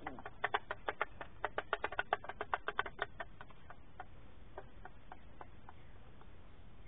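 A rapid, irregular run of light clicks and taps, densest for the first three seconds, then thinning out to scattered ticks.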